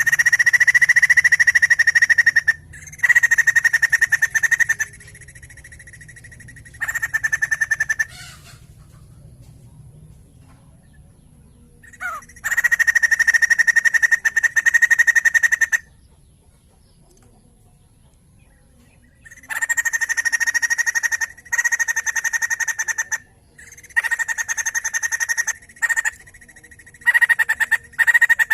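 White-crested laughingthrush (poksay jambul) in loud full song: spells of rapid chattering calls, each a couple of seconds long, broken by short pauses.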